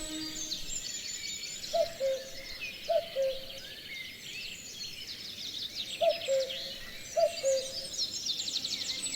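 Common cuckoo calling 'cu-coo', two falling notes, four times in two pairs, over a chorus of small songbirds with rapid high trills.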